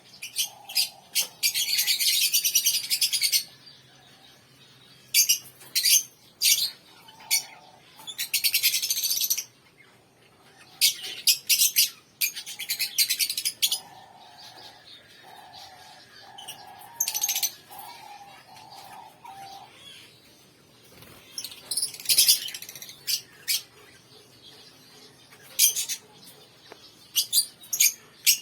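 Pet birds chirping, in bursts of fast, high-pitched chattering lasting a second or two each with quieter stretches between. A run of lower repeated call notes comes in the middle.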